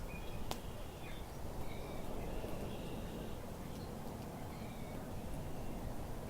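Outdoor ambience: a steady low rumble with several faint, short bird calls, and one sharp click about half a second in.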